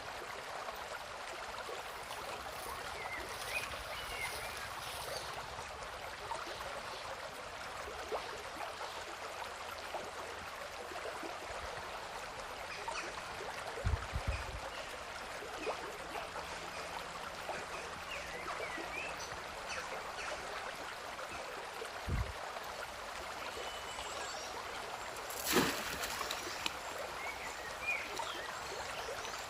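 River water flowing steadily over the shallows with a continuous babbling hiss. A few dull thumps cut in, the loudest near the end.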